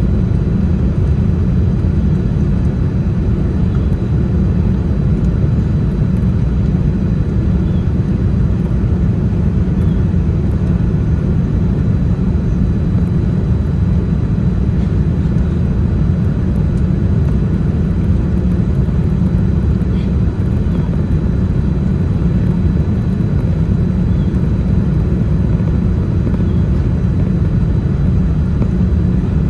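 Steady, even low rumble of a Boeing 787-10 airliner in flight, heard from inside the cabin, with a faint high steady whine above it and no change in level.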